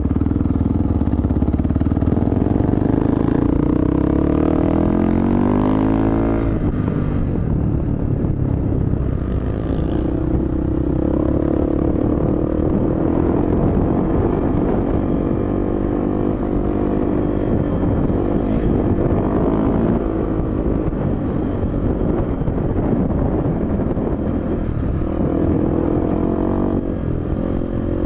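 Suzuki DR-Z dirt bike's single-cylinder four-stroke engine running under way on the throttle. Its pitch climbs steadily for a couple of seconds, drops sharply about six seconds in, then keeps rising and falling with the throttle.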